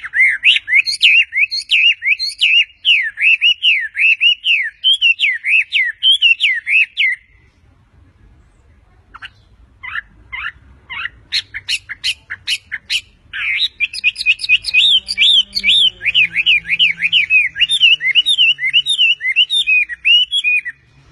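A songbird singing loud, fast runs of sweeping chirps. About seven seconds in it pauses, gives a string of sharp separate notes, then goes back to the fast chirping until it stops abruptly near the end.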